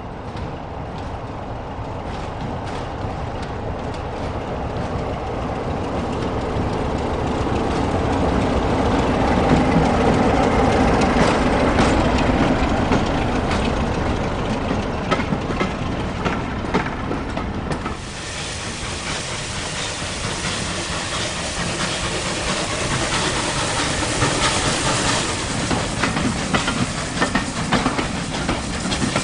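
A train running past, a steady rumble that builds to its loudest about ten seconds in, with wheels clicking over rail joints. About eighteen seconds in the sound changes abruptly to a hissier stretch of running train with more clicking.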